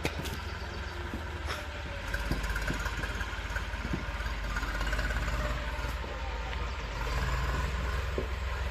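Eicher 380 Super Plus tractor's diesel engine running steadily with a low rumble, getting a little louder about two seconds in and again about seven seconds in.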